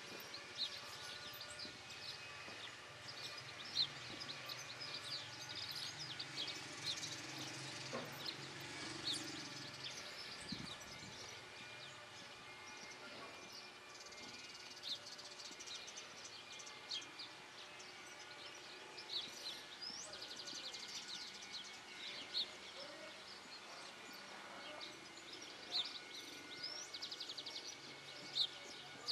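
Small birds singing: many short chirps and quick trills, faint over a steady outdoor background hiss.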